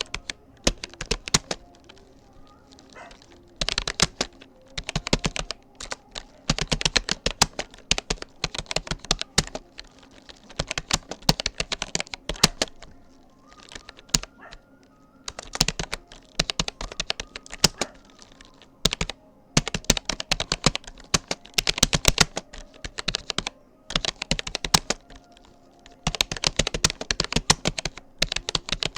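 Rapoo computer keyboard being typed on steadily, with rapid keystroke clicks in runs and brief pauses between them.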